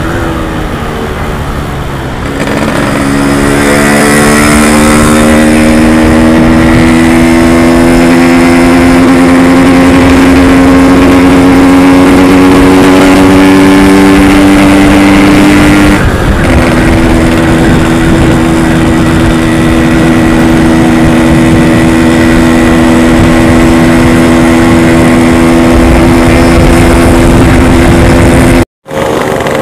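Yamaha RX-King's two-stroke single-cylinder engine under way. Engine pitch falls at first, then climbs slowly and smoothly for over ten seconds. After a brief break about halfway through it holds a steady pitch, and it cuts out for a moment near the end.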